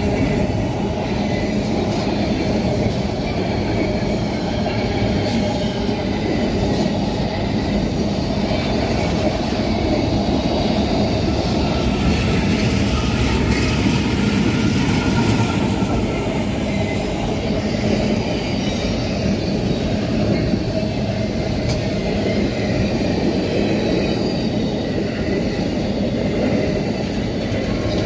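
Grain freight train of hopper cars rolling past: a steady rumble of wheels on rail, with faint wheel squeal and a few sharp clicks.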